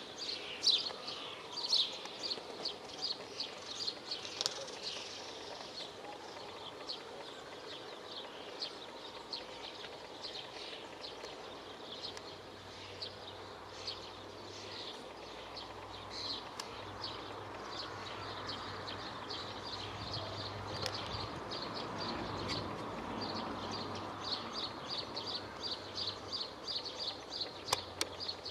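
A small bird chirping: fast runs of short high chirps, several a second. They thin out for a stretch in the middle and come back strongly near the end. A low steady hum sits underneath through the middle.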